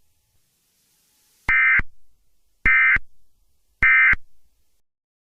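Three short bursts of Emergency Alert System SAME data tones, each about a third of a second long and a little over a second apart: the End of Message code that closes an alert.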